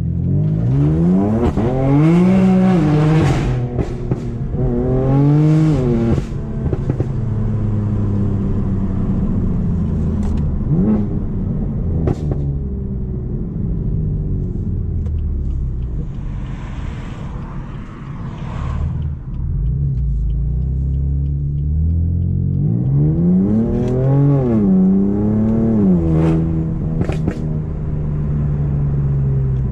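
BMW M4's twin-turbo inline-six through a straight decat Akrapovic exhaust, accelerating hard: the revs climb and drop sharply at each gear change several times. Sharp cracks come on the exhaust in between, about ten to twelve seconds in.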